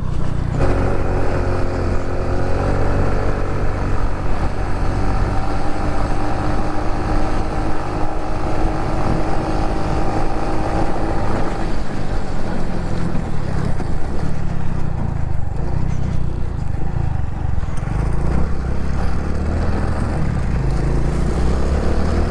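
Honda Pop 110i's small single-cylinder four-stroke engine running as the bike rides along, rising in pitch as it pulls away and then holding steady. After about eleven seconds the engine tone sinks into a strong low rumble.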